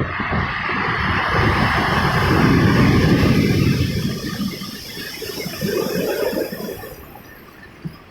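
Ocean waves breaking on the shore: the surf rushes in to its loudest about two to three seconds in, then fades as the water draws back.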